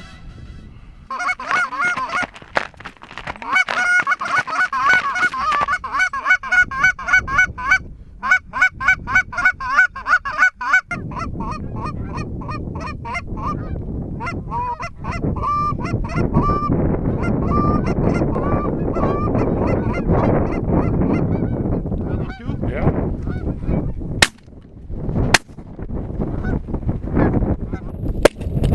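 Geese honking, a dense chorus of many overlapping calls that thins to scattered single honks about halfway through, over steady wind noise. A few sharp cracks come near the end.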